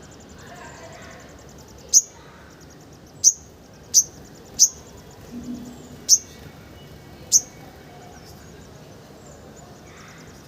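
Sunbird calling: six sharp, very high chirps, each dropping quickly in pitch, spaced about a second apart. A faint, fast, high twittering runs underneath.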